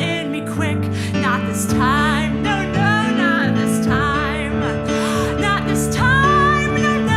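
A song: a sung voice with vibrato over acoustic guitar accompaniment.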